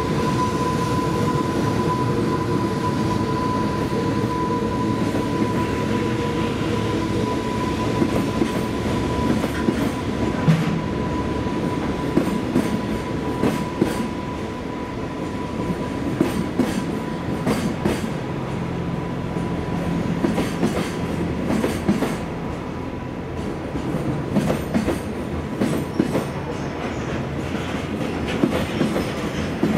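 A container freight train's flat wagons rolling past, their wheels clicking over the rail joints in an irregular clatter. A thin, steady, high whine fades out about halfway through.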